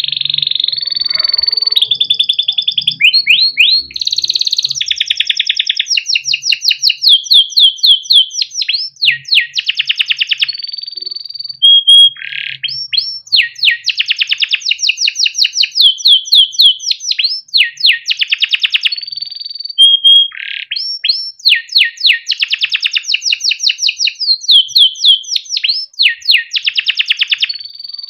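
Domestic canary singing a long, continuous song of fast rolling trills and repeated chirps, briefly breaking off twice.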